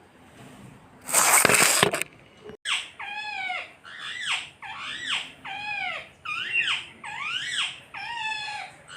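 Pet parrot calling: a loud harsh burst about a second in, then a run of repeated arching squawks, roughly two a second.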